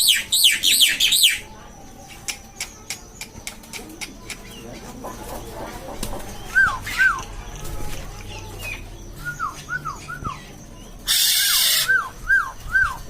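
Black-winged myna (jalak putih) calling. It opens with a quick run of high, downward-sweeping notes, then gives scattered sharp clicks and short arched whistles in twos and threes. About eleven seconds in comes a loud harsh burst, followed by three more whistles.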